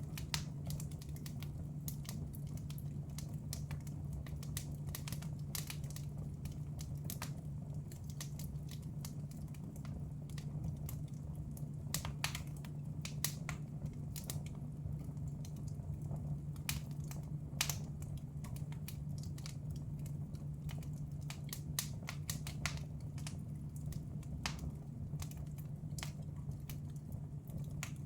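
Wood fire crackling in a fireplace, with irregular sharp pops and snaps, several of them louder, over a steady low hum.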